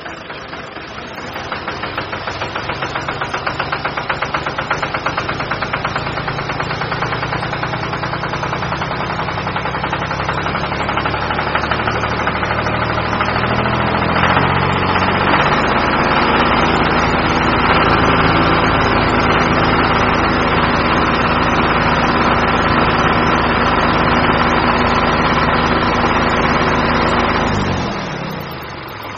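Small engine running, building up and speeding up over roughly the first half, then running steadily before winding down with falling pitch near the end.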